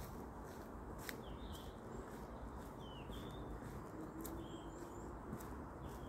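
Birds chirping in short calls, about half a dozen, scattered through the woods, over a steady low hiss and scattered faint clicks.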